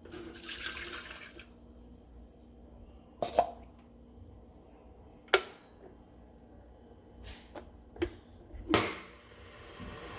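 Water running briefly into an electric kettle, followed by several sharp clicks and knocks spaced a few seconds apart.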